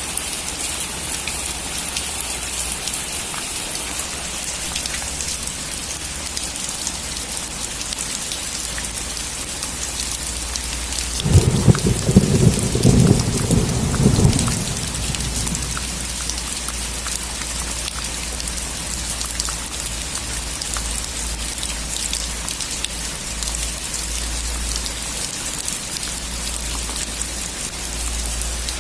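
Steady rain falling, with one thunderclap about eleven seconds in that crackles and rumbles low for about three seconds before the rain carries on alone.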